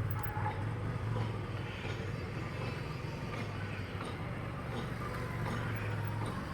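Car engine running steadily at low revs with an even low hum.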